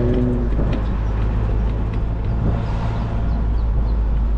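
A car driving along: steady low engine and road rumble. A pitched engine drone dies away about half a second in.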